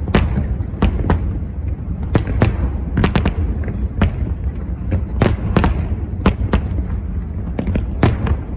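Fireworks display: a run of sharp shell bursts, irregular and about one or two a second, over a continuous low rumble.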